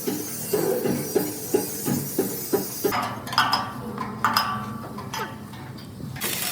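Metal being struck, about two short blows a second, then a few ringing metallic clinks.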